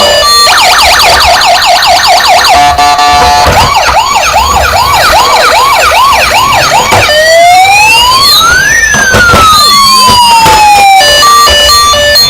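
Toy emergency vehicle's electronic siren sound module, loud and cycling through its tones: a fast warble, a brief steady tone, a slower regular wail, then from about seven seconds in long overlapping rising and falling wails.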